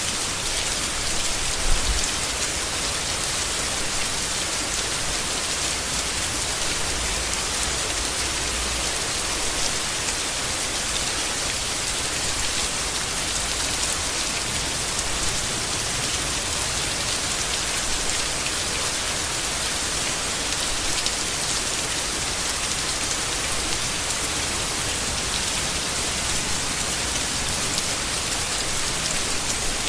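Steady rain falling on foliage, an even hiss with no letup. A faint low rumble sits underneath for the first several seconds.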